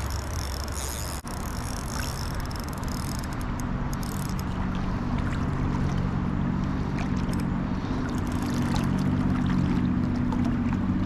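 Rushing river current with a low steady hum underneath that grows a little louder from about three seconds in, and scattered light ticks. Before a brief break about a second in, a high insect buzz sits over it.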